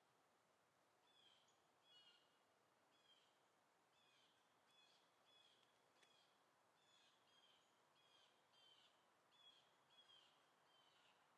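Faint bird calls: a steady run of short, high chirps, each dropping slightly in pitch, a little over one a second, over a faint outdoor hiss.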